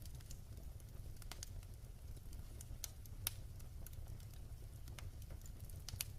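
Wood fire crackling: irregular sharp pops and snaps over a low steady rumble, the loudest pop about three seconds in.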